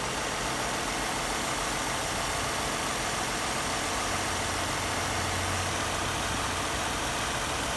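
2014 Ford Mustang's 3.7-litre V6 idling steadily, running fine.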